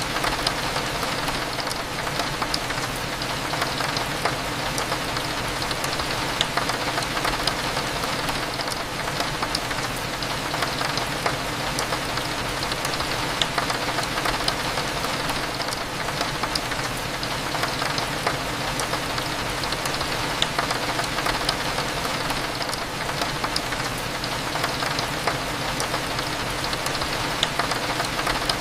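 Steady rain pattering against a window, thick with small drop ticks, over a low, steady hum. A short, faint high tick recurs about every seven seconds.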